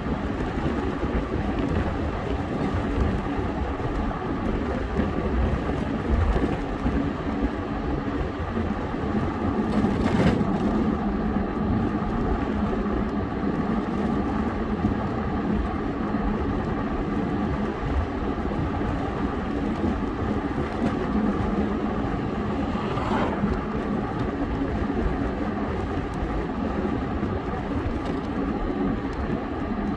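Steady engine hum and road noise while riding, with wind buffeting the microphone and a brief louder swish about ten seconds in.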